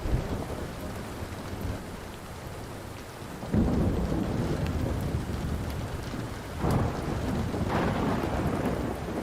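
Steady rain with rolling thunder, which swells in about three and a half seconds in and again near seven seconds. A wood fire's sharp crackles come through now and then.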